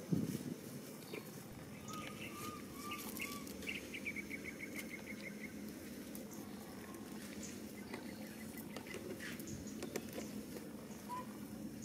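Faint bird calls: four short arched whistles, then a quick even trill of ticks, and one more short whistle near the end, over steady background noise with light rustling in the grass. A brief knock at the very start.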